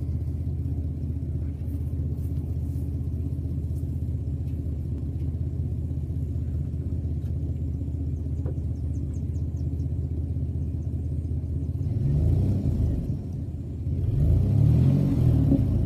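Chevrolet S10 ZR2's 4.3-litre V6 idling with a steady exhaust rumble, the muffler hanging partly off the pipe after one stud broke. The engine is revved briefly about twelve seconds in, then again a little harder near the end.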